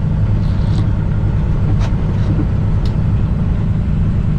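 Semi-truck's diesel engine idling, a steady low rumble, with a few faint short clicks in the first few seconds.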